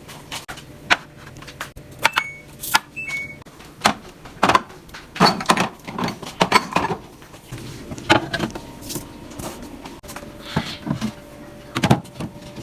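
Irregular knocks and clatters of containers, shelves and fridge parts being handled and set down during fridge cleaning. A low steady hum runs for the first few seconds, and two short high beeps come between about two and three and a half seconds in.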